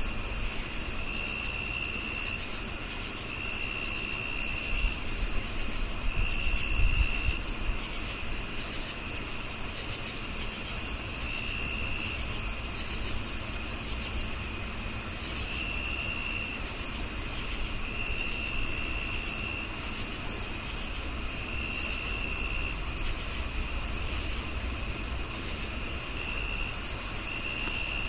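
Crickets chirping: a steady high-pitched trill, a chirp repeating about twice a second, and a lower trill that comes and goes in stretches of a second or so. A low rumble underneath swells briefly about seven seconds in.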